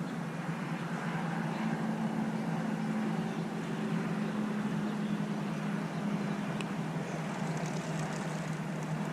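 Steady rain hiss under a constant low hum, with one faint click about six and a half seconds in.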